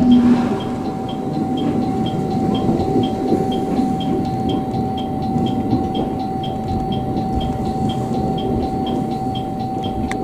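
Electric train running, heard from on board: a steady rumble with a constant thin whine and a light, regular ticking about three times a second.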